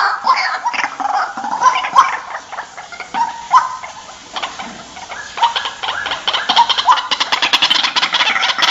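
White-breasted waterhen calling: scattered sharp notes, then from about five seconds in a fast run of clicking croaks that quickens toward the end.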